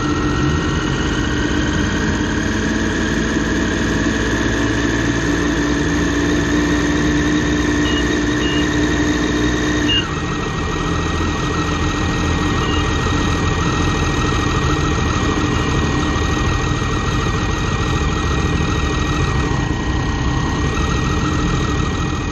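Triumph Daytona 675's inline three-cylinder engine running at low revs as the bike rolls slowly at walking-to-jogging pace; the note steps down a little about ten seconds in.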